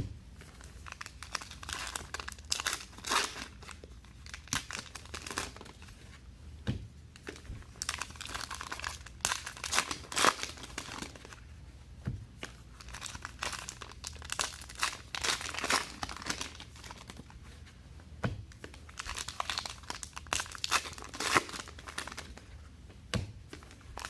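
Trading card pack wrappers being torn open and crinkled by hand, in irregular rustling bursts, with cards handled in between.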